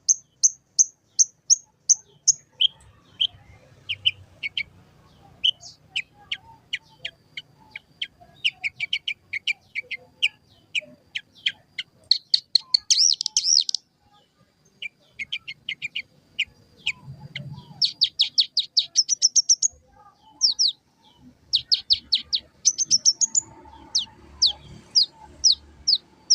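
A lark singing a long, varied song of rapid repeated chirps and fast trills, broken by short pauses.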